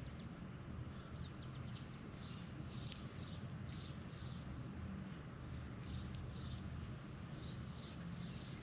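Birds calling in short, repeated high notes, a few a second, with a couple of sharp clicks, over a steady low outdoor rumble.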